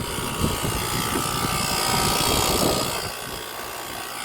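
Central air-conditioner outdoor condensing unit running, with a steady whine over a rough haze, a sound that does not sound good at all, though the unit is still cooling. It is a little quieter near the end.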